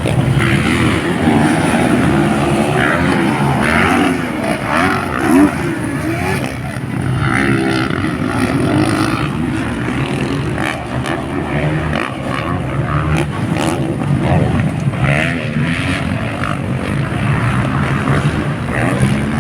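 Dirt-bike engines on a motocross track, revving up and down as the bikes ride, over a background of voices.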